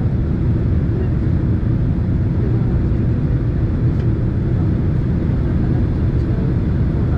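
Steady low cabin roar inside a Boeing 767 airliner in flight: jet engine and airflow noise, even and unchanging.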